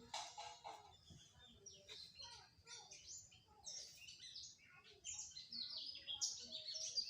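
Faint chirping of many small birds, short calls overlapping and growing busier about two thirds of the way through.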